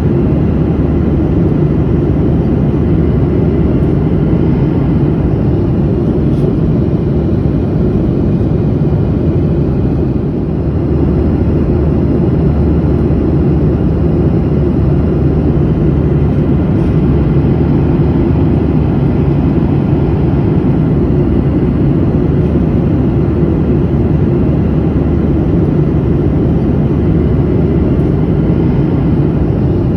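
Steady airliner cabin noise in flight: an even, low-pitched rush of engines and airflow heard from inside the passenger cabin, dipping slightly for a moment about ten seconds in.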